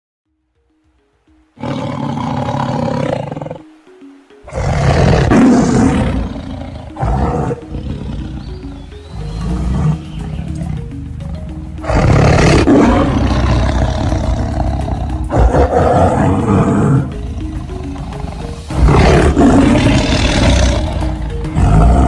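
Tiger roaring in long, rough roars of several seconds each, the first about four seconds in and further ones near twelve and nineteen seconds, over a background tune. A short musical jingle plays before the first roar.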